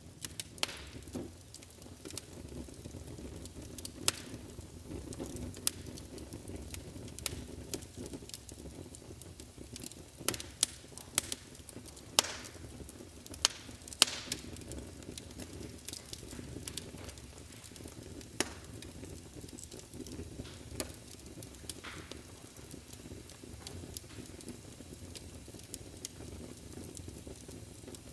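Wood fire burning in a fireplace: a low steady rumble of the flames with sharp, irregular crackles and pops, busiest around the middle.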